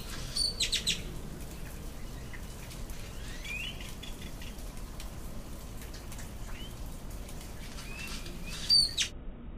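Small birds chirping and calling: a quick cluster of sharp, high chirps about half a second in, a few short rising calls in between, and another loud burst of chirps near the end.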